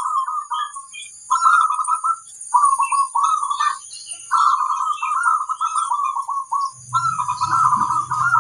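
Zebra doves (perkutut) singing their rolling, trilled coo in a series of phrases with short pauses between them. A low hum joins in near the end.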